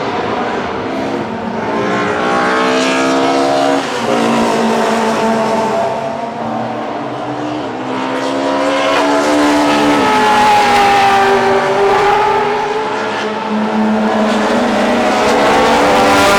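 Classic DTM touring-car engines at full throttle. Their pitch climbs steadily and drops sharply at upshifts about four and eight seconds in, then a further engine note rises and falls as cars pass.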